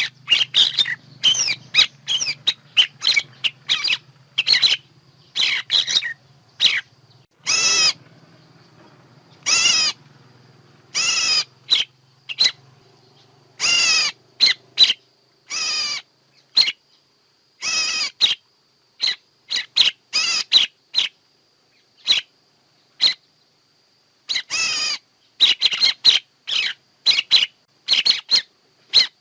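Bird calls of the kind played as a trapping lure: a rapid run of short, loud, rippling chirps and squawks, with a quiet gap of about two seconds past the middle before the quick clusters resume. A faint low hum lies under the first half.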